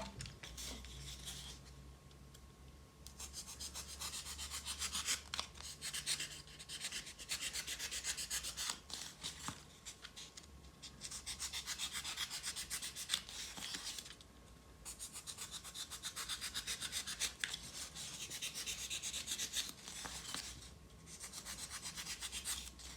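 Utility knife cutting the edges off foam (expanded polystyrene) brick blocks: runs of scraping, rasping strokes a few seconds long, with short pauses between them.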